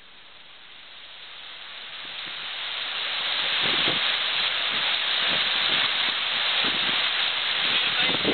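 Steady rush of a waterfall, the Falls of Avon, fading in over the first few seconds and then holding steady, with brief low rumbles from about halfway.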